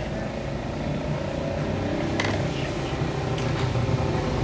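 A motor running steadily and growing slowly louder, with two sharp clicks in the middle.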